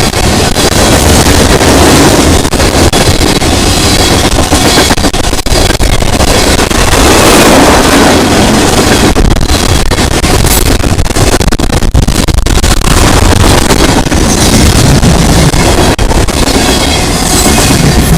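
A freight train passing close by with a heavy, steady rumble. The recording is loud and overloaded, with wind buffeting the microphone.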